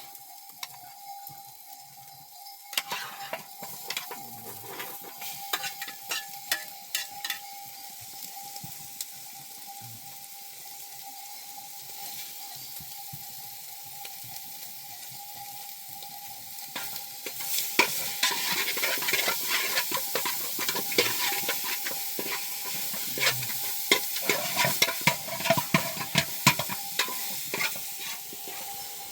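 Food sizzling in a pan while a utensil stirs it, scraping and clinking against the pan in two bouts: a short one about three seconds in and a longer, louder one in the second half.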